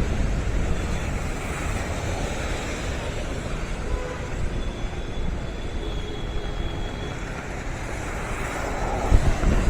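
Steady road traffic noise with wind rumbling on the microphone, and a louder gust about nine seconds in.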